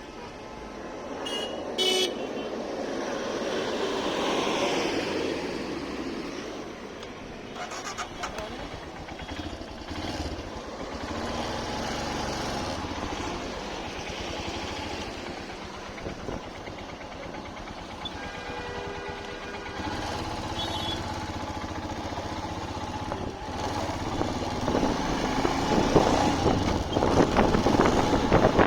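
Road traffic with motorcycles and cars going by in slow swells, and vehicle horns honking briefly a few times. Wind buffets the microphone more and more near the end.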